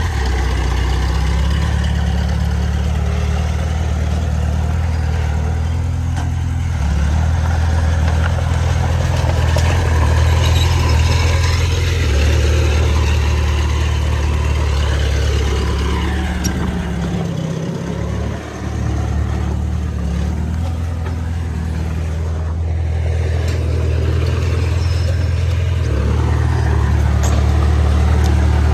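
Heavy diesel engine of earthmoving machinery running under changing load, its pitch and level shifting, with a brief drop in load about two-thirds of the way through.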